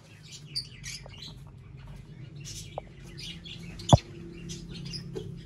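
Small birds chirping: many short, high chirps scattered throughout, with one sharp click about four seconds in.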